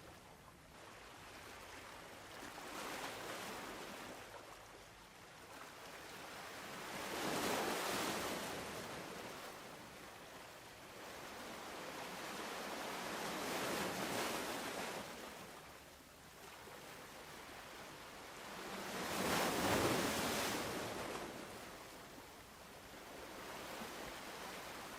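Ocean surf: waves rolling in and washing back in slow swells, four in all, every five to six seconds, the second and last the loudest.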